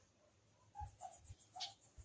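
Faint bird calls: a few short, sharp chirps with softer, lower notes among them, starting about a second in.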